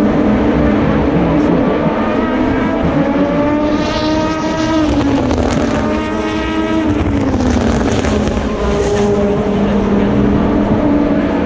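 Endurance race cars accelerating past out of a corner in a continuous stream. Twice, a nearer car's engine note climbs steeply in pitch as it passes, then drops away, over the drone of the other cars.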